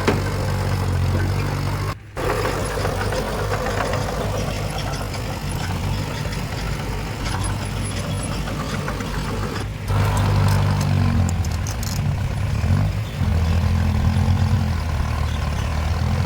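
Diesel engines of heavy earthmoving machinery running steadily. The sound breaks off briefly about two seconds in and again near ten seconds, with some high metallic squealing just after the second break.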